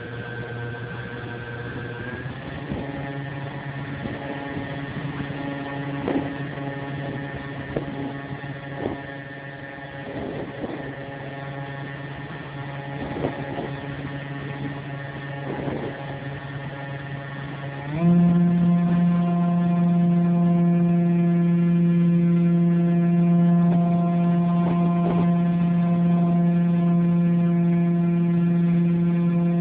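RC model airplane's motor and propeller running at a steady pitch. The pitch steps up slightly about two seconds in, then jumps higher and much louder near two-thirds of the way through and holds there as the throttle is opened.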